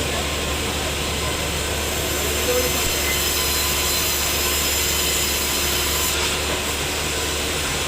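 Sawmill saw running steadily: a loud even machine noise with thin high-pitched whines over it, a little louder through the middle.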